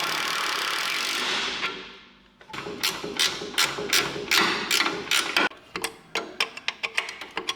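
A steady hiss that fades out about two seconds in, then a hand ratchet wrench clicking about four times a second as bolts on the truck's transmission mount are run in.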